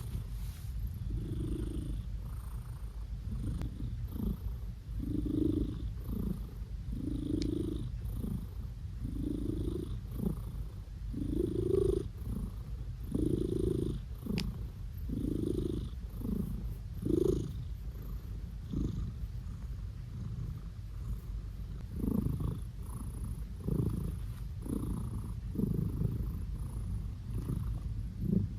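Blue British Shorthair cat purring steadily while being petted, with a louder rhythmic swell roughly once a second that pauses briefly about two-thirds of the way through.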